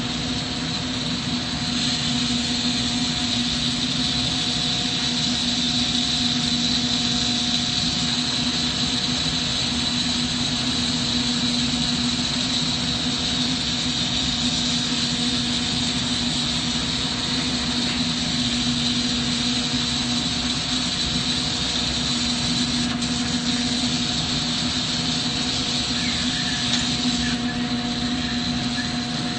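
Steady hiss of a glassworking torch flame over a constant hum, unchanging throughout.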